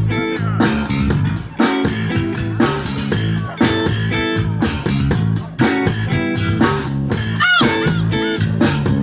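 Live band playing an upbeat groove: electric guitar, bass guitar and drum kit with a steady beat, the instrumental lead-in before the singing comes in.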